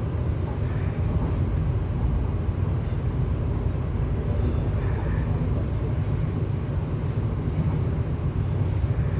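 MTR East Rail Line R-Train electric train running at speed between stations: a steady, deep rumble of wheels on rail and traction equipment, with a few faint high ticks and squeaks.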